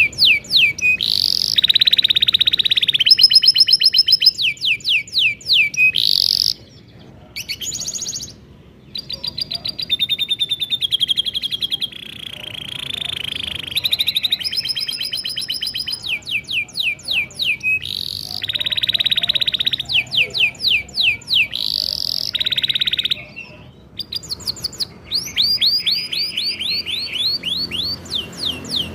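Domestic canary singing a long rolling song: rapid trills of repeated notes, runs of quick falling sweeps and buzzy held phrases, with a few short pauses.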